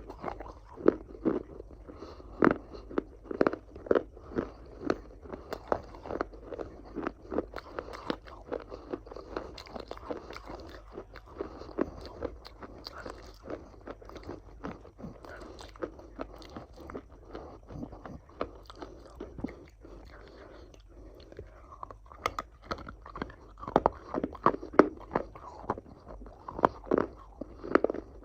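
Close-up chewing and biting of crunchy food: a steady run of sharp crunches, about one or two a second, that eases off for a few seconds about two-thirds of the way through and then picks up again.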